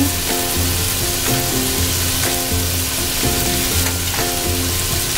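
Diced potatoes, carrots and garlic frying in oil in a pot, a steady sizzle.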